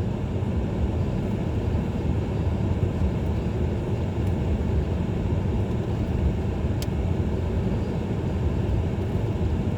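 Steady low rumble of a car's engine and tyres on a snowy road, heard from inside the moving car's cabin. A single faint click comes about seven seconds in.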